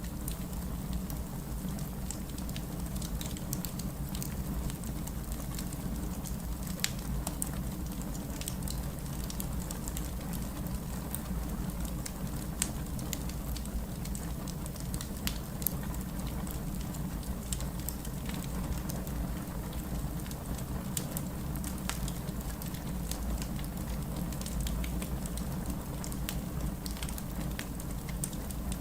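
Wood campfire burning steadily, with a low rumble of flames and frequent scattered sharp crackles and pops.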